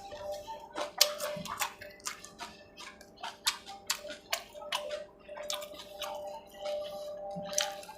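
Close-up eating sounds: wet chewing and lip smacks, heard as irregular sharp clicks a few times a second, over a faint steady hum.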